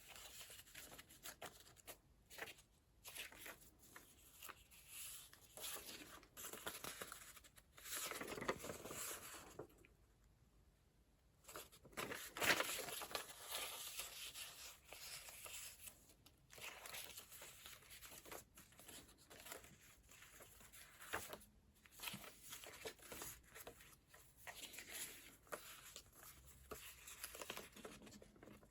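Paper pages and layered ephemera of a handmade junk journal being turned and handled, rustling and crinkling on and off, with the loudest rustle about twelve seconds in.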